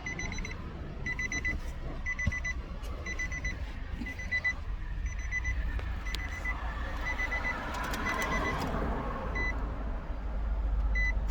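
A repeated electronic warning beep, a bit more than one a second, thinning out to a couple of single beeps near the end. Under it runs a steady low vehicle engine rumble that grows louder near the end.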